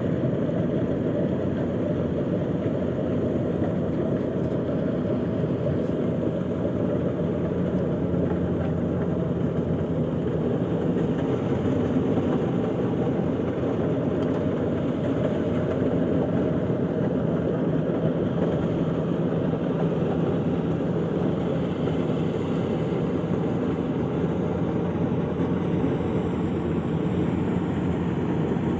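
Rice harvester machine's engine running steadily at a constant speed, a continuous low mechanical hum with no change in pace.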